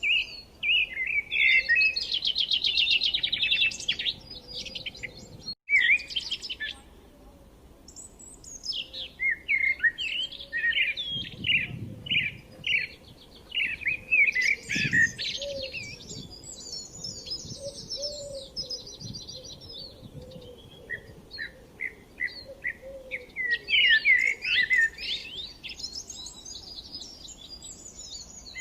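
Songbirds chirping and singing, several quick, overlapping calls and trills, with a brief cut to silence about five and a half seconds in.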